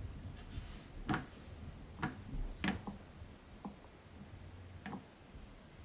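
Light fingertip taps and clicks on smartphone touchscreens and bodies as the phones are handled: about six short, sharp taps at irregular intervals, the loudest few in the first three seconds.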